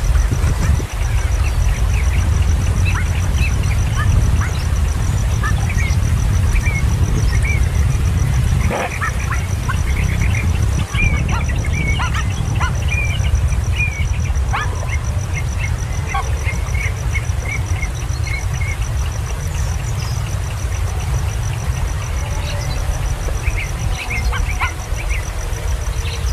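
Birds giving many short, high chirps in quick runs over a loud, steady low rumble, with a faint steady high-pitched tone throughout.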